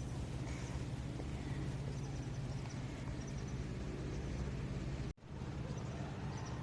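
Steady low outdoor background rumble with faint, short high chirps; the sound drops out abruptly for a moment about five seconds in and then resumes.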